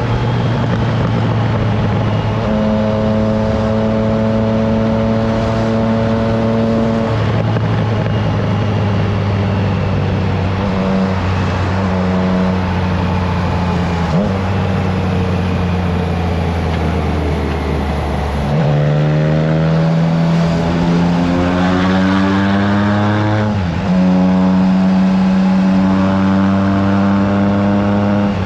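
Triumph Trident 660's three-cylinder engine through an aftermarket FireTong exhaust, heard while riding at steady speed with wind noise on the microphone. From about two-thirds of the way through, the engine note climbs as the bike accelerates, then drops and jumps louder just before the end with a gear change.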